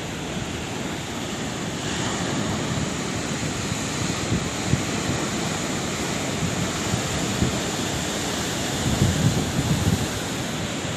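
Sea waves surging and washing continuously, with a deeper rumble that swells about nine seconds in.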